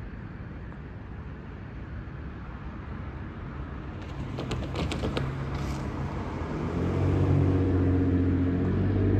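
Diesel locomotives of an approaching freight train: a low rumble grows louder, a few sharp clicks come about halfway, and then a steady low engine drone takes over and keeps building for the last couple of seconds.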